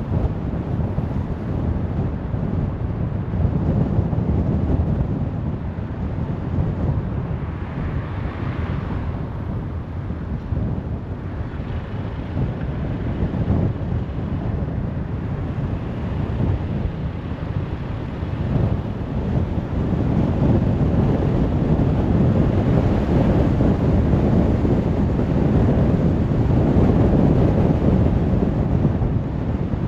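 Road noise of a car driving: a steady low rumble of tyres and wind, swelling somewhat louder in the last third.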